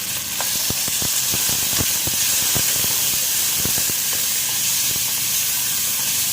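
Chicken pieces frying in hot oil with onion in a pan, a steady loud sizzle with scattered crackling pops that gets louder about half a second in.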